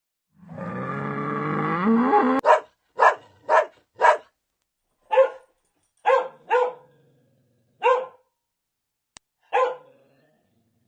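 Dog barking: a drawn-out, rising, growl-like call first, then about nine short single barks spaced half a second to a second and a half apart.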